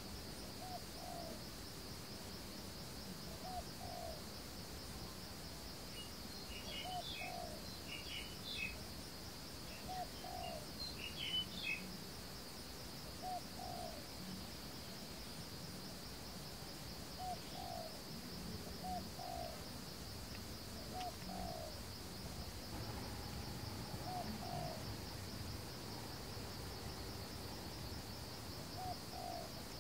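Forest ambience: a bird repeats a short low two-note call every two to three seconds, and another bird chirps higher for a few seconds in the middle. Under them runs a steady high insect trill.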